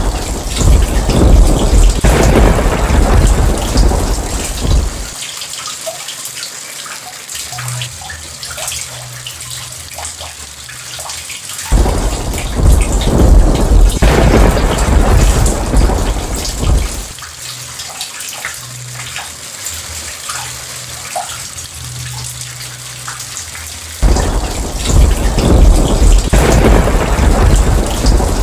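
Steady rain with three loud rolls of thunder, each starting suddenly at full strength and rumbling for about five seconds, roughly twelve seconds apart.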